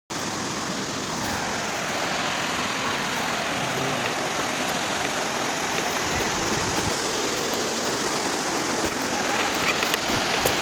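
Waterfall rushing: a steady, even noise of falling water, cutting in suddenly.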